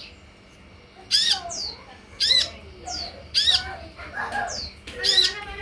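Sunbird calling: sharp, high, scratchy notes repeated about once a second, four times, each followed by a short falling whistle.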